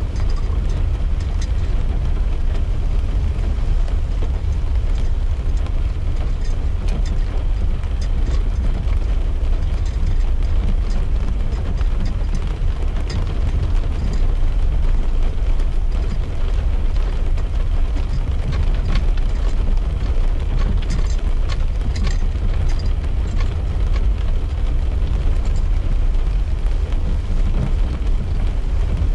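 Car driving in rain, heard from inside the cabin: a steady low road-and-engine rumble, with raindrops ticking lightly and irregularly on the windscreen and roof.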